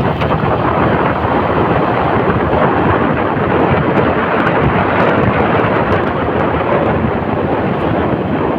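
Loud, steady wind buffeting and rushing over the microphone, mixed with road and engine noise, while riding a motorcycle.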